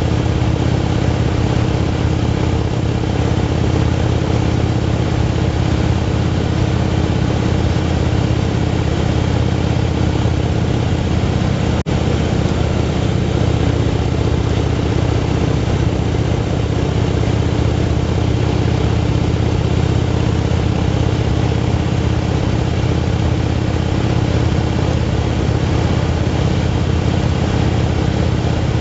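Motorcycle engine running steadily at cruising speed, with an even rush of wind and road noise. There is a momentary break in the sound about twelve seconds in.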